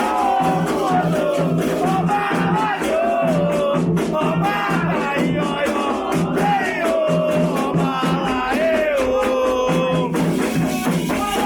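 Candomblé ritual chant: singing in a bending melody over steady percussion and shaken rattles.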